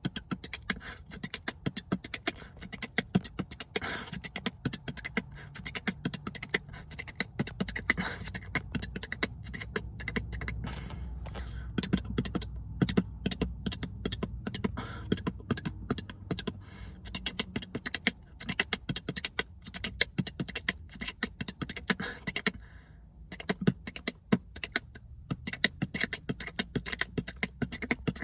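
Beatboxing: a fast, dense run of clicks and percussive mouth sounds, with a low hummed bass underneath through the middle and a brief pause about 22 seconds in. It is a combo being drilled over and over, not yet mastered.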